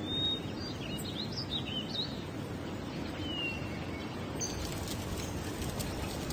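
Several short bird chirps, clustered in the first few seconds, over a steady low background noise.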